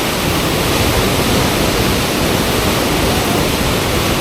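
Fast-flowing river water rushing steadily and evenly, the churning current of a river-surfing wave.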